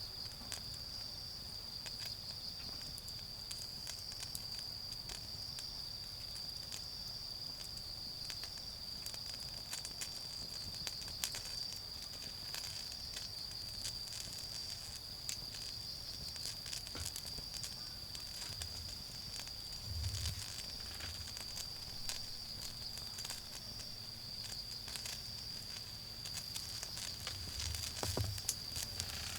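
Wood fire crackling with scattered irregular pops, over the steady high-pitched chirring of autumn insects.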